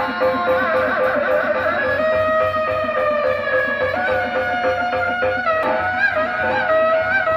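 Live Sundanese benjang accompaniment music: a single wavering, ornamented reed-pipe (tarompet) melody over a steady drum rhythm.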